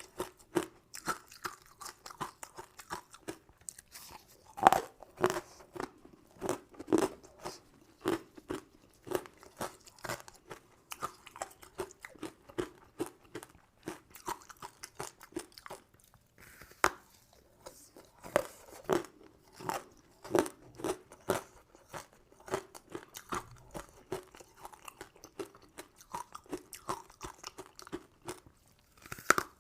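Close-miked eating sounds: a person biting and chewing crunchy candy sweets, with rapid sharp crunches and a brief lull about halfway through.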